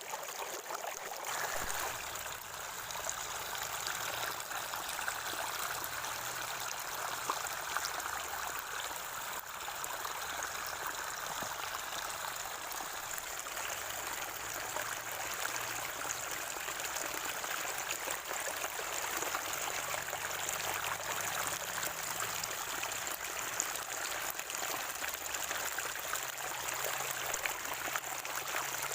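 Natural spring water flowing, gurgling and trickling steadily.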